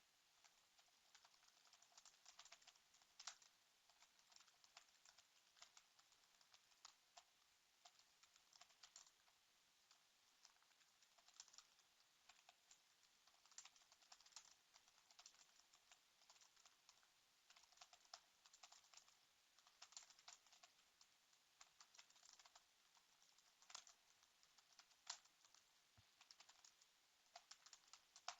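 Faint typing on a computer keyboard: irregular keystrokes in flurries with short pauses.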